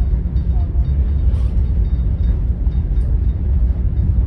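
Steady low rumble aboard a ferry under way, with a faint steady hum above it.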